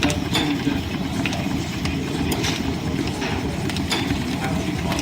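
Line-shaft-driven wood lathe and its belts and overhead shafting running with a steady low rumble and clatter, with irregular clicks through it.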